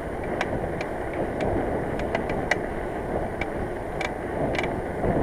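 Steady wind and road noise of a bicycle being ridden, with short sharp ticks repeating at uneven spacing about twice a second.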